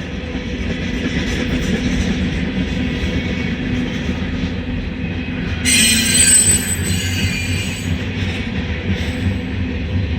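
Freight train rolling slowly past, its cars and wheels rumbling steadily. About six seconds in, a wheel squeals briefly and sharply for about a second and a half.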